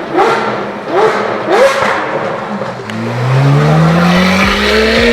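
Sports car engine revving in three quick blips, then accelerating with a long, steadily rising pitch.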